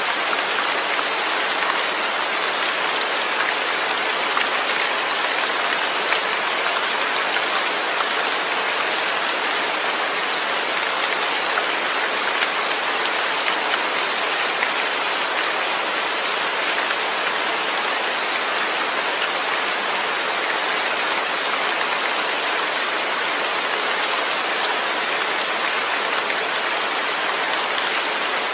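Steady rain falling, an even hiss of many drops with faint individual drop ticks and no thunder.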